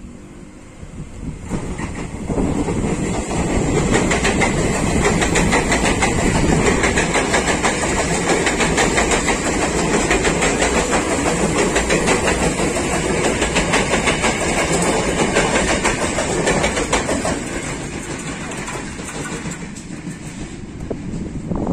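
KRL Commuter Line electric multiple-unit train passing close by on the track. It builds up within the first couple of seconds, then runs loud for about fifteen seconds with a rapid clickety-clack of wheels over the rail joints, and fades as it moves away.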